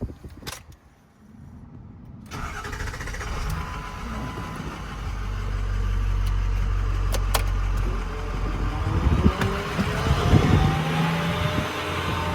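Ford F550 truck engine starting up about two seconds in and then running, with a rising whine joining in near the end.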